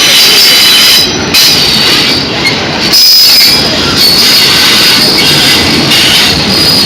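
Freight train rolling past, its steel wheels squealing on the rails in thin high-pitched tones over a steady loud rumble of cars.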